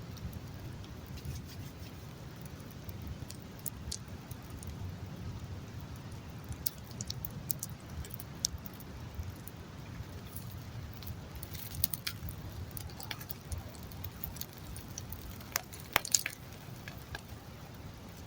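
Campfire burning, crackling with scattered sharp pops over a low steady rumble, with a couple of louder snaps near the end.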